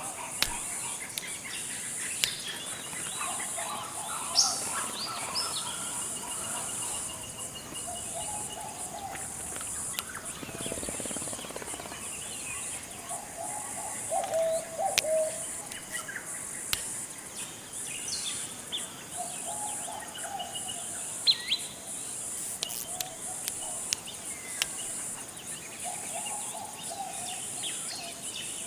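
Tropical forest ambience: several birds calling, with short whistles, a rapid trill and lower calls repeating every few seconds, over a steady high insect drone.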